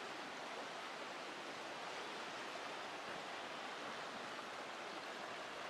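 Waterfall water rushing steadily, an even hiss with no separate events.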